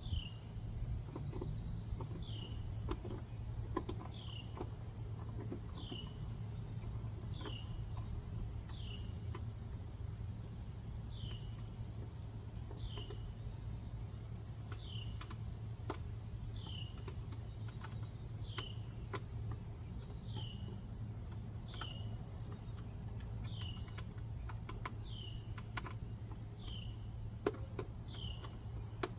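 A bird calling over and over, a short falling chirp roughly once a second, over a steady low hum. Scattered light clicks come from the fridge's handle hardware being screwed on by hand.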